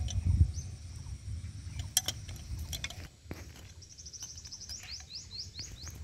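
A small bird singing a quick run of short, high, sweeping chirps, several a second, from about four seconds in. Under it is a low outdoor rumble that is loudest at the very start, and a few sharp clicks come around the middle.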